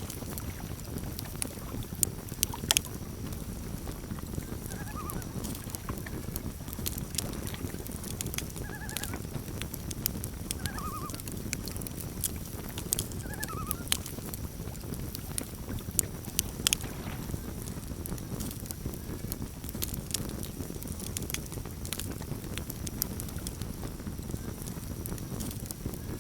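Campfire crackling with sharp pops over a low rumble, and a few faint warbling loon calls between about five and fourteen seconds in.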